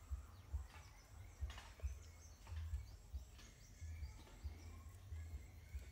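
Faint, irregular low bumps and rustles of hands handling wires and the speaker cabinet as signal wires are routed through it.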